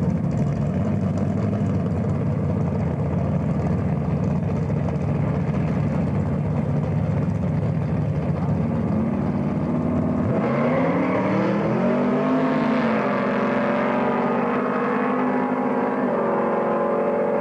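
Two drag-racing cars' engines rumbling at the start line, then launching about ten seconds in and accelerating away down the strip. The engine note climbs, falls back once, then holds steady.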